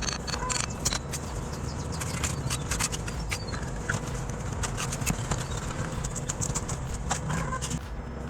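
Irregular sharp knocks, taps and clicks from hand work on a building site, over a steady low rumble.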